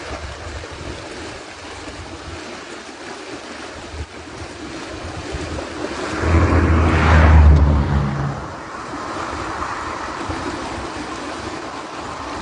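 Steady rushing of moving water with wind buffeting the microphone; about six seconds in a louder low rumble swells for roughly two seconds, then eases back.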